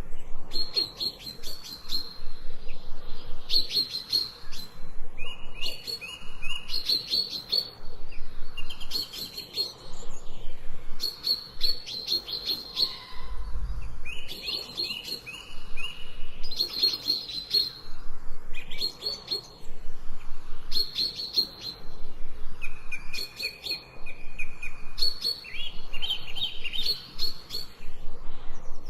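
Songbirds singing, with short phrases of rapid high chirps repeating every second or two, some with lower held notes. There is a brief low rumble about halfway through.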